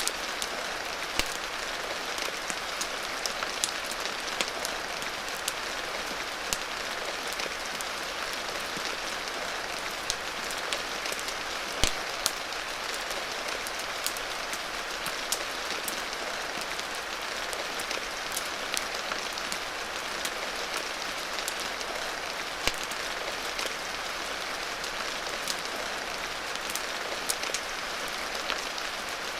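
Steady rain hiss mixed with a crackling wood fire: scattered sharp pops over the rain, the loudest about twelve seconds in.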